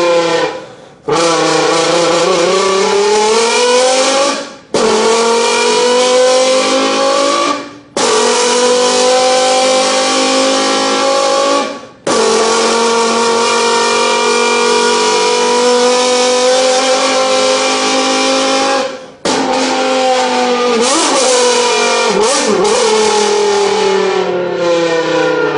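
Human vocal imitation of a Lamborghini V10 engine, made with voice and tongue into a pressed beer can. It runs as a series of long revving passes whose pitch climbs like a car pulling through the gears, broken by five short breath gaps. Near the end the pitch falls, with a few quick blips like downshifts.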